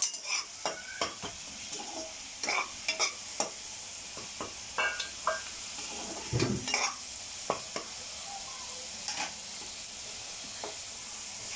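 Onion-tomato masala sizzling steadily in oil in a kadai over a high gas flame. A perforated steel ladle stirs it, scraping and clicking against the pan at irregular strokes.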